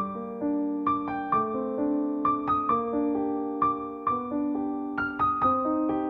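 Background piano music: a slow, gentle melody of single notes and chords, each note struck and left to ring out.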